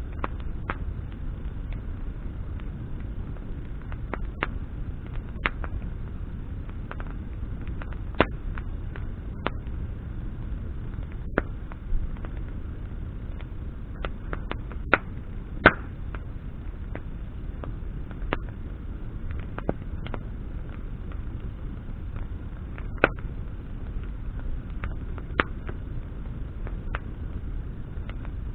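Wood campfire burning, branches crackling and popping in irregular sharp snaps over a steady low rush of the flames.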